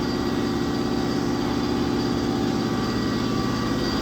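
Machinery running steadily, a constant hum with a thin high whine over a fast low pulsing.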